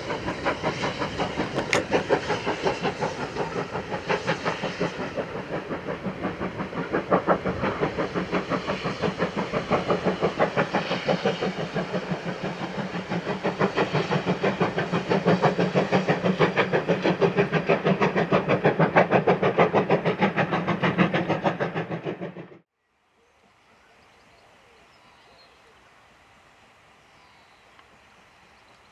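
GWR 2-6-0 No. 9351 steam locomotive working hard, its rapid, even exhaust beats growing louder toward the end before stopping abruptly about 22 seconds in. After that only faint quiet country ambience remains, with a few distant bird chirps.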